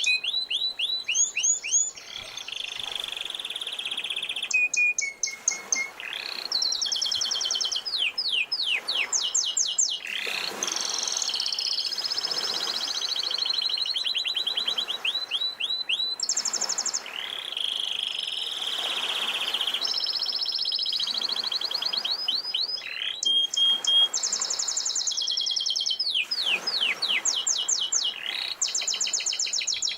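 Domestic canary singing without a break: fast trills and rolls of rapidly repeated high notes, some sliding down, with the pattern changing every couple of seconds.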